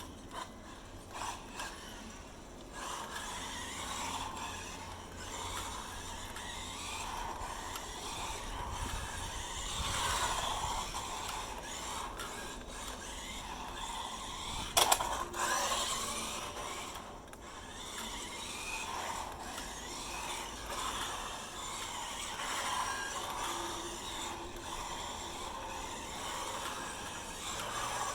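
SG 1604 RC drift car running and sliding: its electric motor and gears whine, rising and falling with the throttle, while the tyres scrape as it skids. There is one sharp knock about fifteen seconds in.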